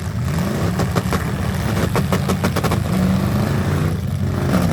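Demolition-derby V8 car engines revving, with a quick cluster of sharp metal bangs from cars colliding about two seconds in.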